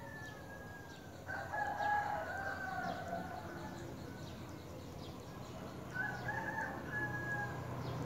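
Drawn-out, crow-like bird calls, three in all. The first falls slightly at the start, a louder one comes just over a second in, and a third comes about six seconds in. Faint short high chirps sound in between.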